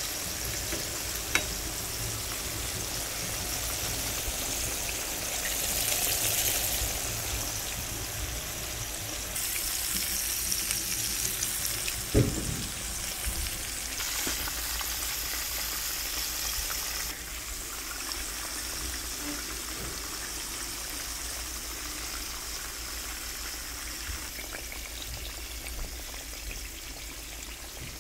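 Breaded salmon fillets frying in a skillet of hot oil: a steady sizzle that swells louder for stretches. A single sharp knock cuts in about twelve seconds in.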